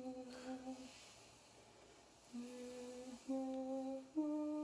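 A voice humming a slow, lullaby-like melody in held notes of about a second each, with a short pause partway through.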